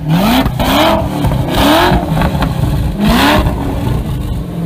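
Ford GT's supercharged 5.4-litre V8 revved through its exhaust: four quick throttle blips, each rising in pitch. It settles back to a steady idle near the end.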